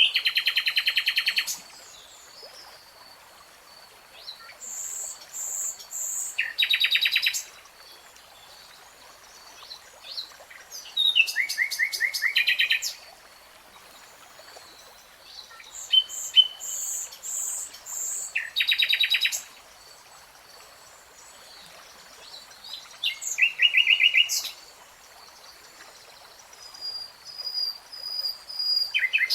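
A songbird singing short phrases about every five seconds. Each phrase is a few high whistled notes ending in a fast, buzzy trill, over a faint steady high-pitched background.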